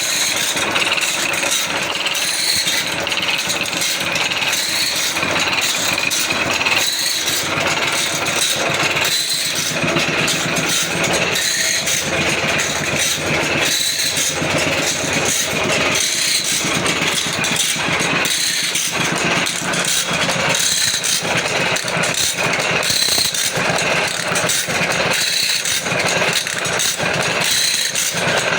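Automatic band saw blade sharpening machine running steadily, its motor and grinding wheel working with a continuous rattle and short mechanical clicks recurring about once or twice a second.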